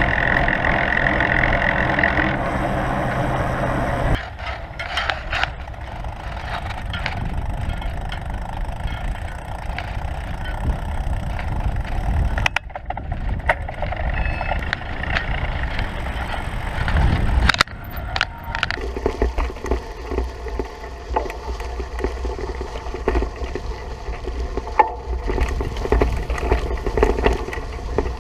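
Bicycles being ridden: wind rushing over the microphone and tyre noise, with the sound changing abruptly a few times.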